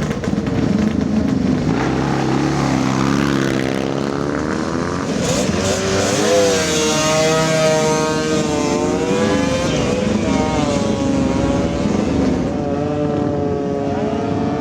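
Classic motorcycle engine running, then revved up and down repeatedly from about five seconds in, its pitch rising and falling over and over.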